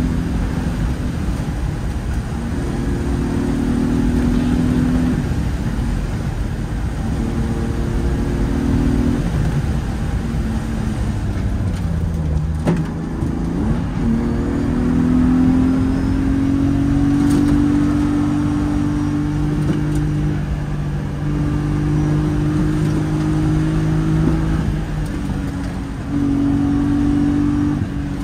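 BMW E36 engine heard from inside the cabin on a spirited drive, its revs climbing and dropping as the driver accelerates, lifts and changes gear. There is a click and a dip in revs a little under halfway through.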